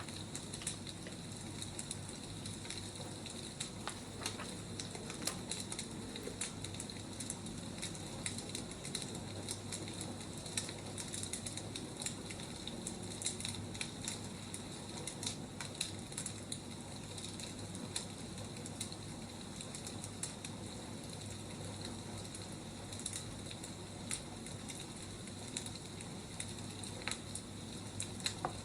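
Wood fire crackling: a steady hiss dotted with irregular sharp pops and snaps.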